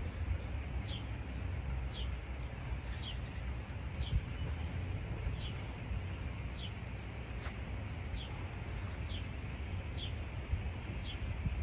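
A bird calling over and over, a short falling chirp about once a second, over a steady low rumble.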